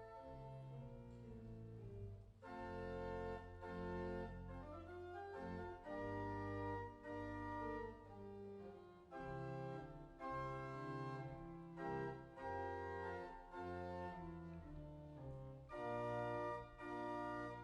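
Organ music: a series of full held chords over a deep bass, changing about once a second with short breaks between them.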